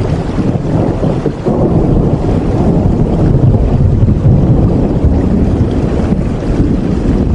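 Steady rain ambience with a heavy, deep rumble under it that swells about a second and a half in.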